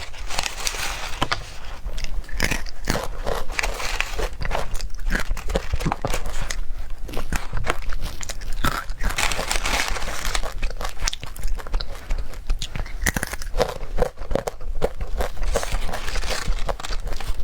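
Close-up chewing and biting of a snack, a dense irregular run of crunchy clicks and crackles.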